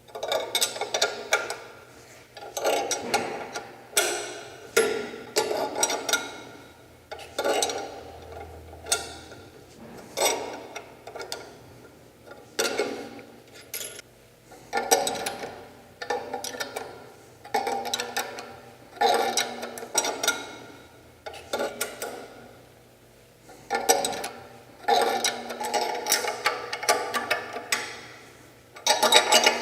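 Socket ratchet clicking in short repeated strokes, roughly one a second, as the motor mounting nuts are turned to draw the motor back and tension the drive belt.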